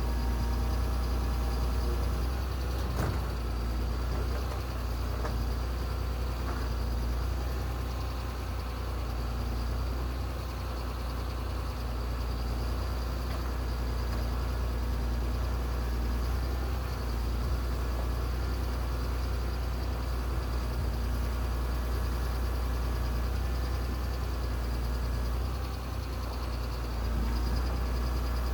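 A heavy machine's engine running steadily with a deep rumble, with a single knock about three seconds in.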